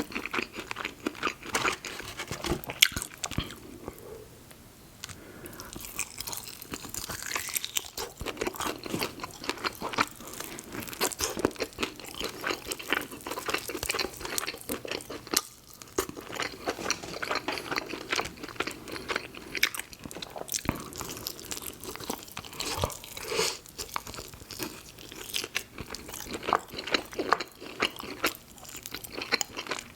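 Close-miked chewing and crunching of fried fast food, with dense wet mouth sounds and crisp crunches throughout and a couple of brief pauses between bites.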